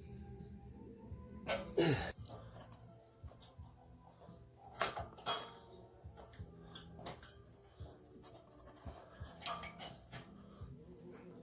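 Hand tools and small metal parts clinking and clattering, several short knocks a few seconds apart, during repair work on a snowblower.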